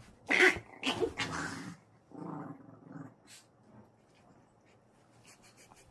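Pomeranian puppy vocalising: two loud, sharp barks in the first two seconds, then a softer, lower growl at about two to three seconds, followed by faint ticks.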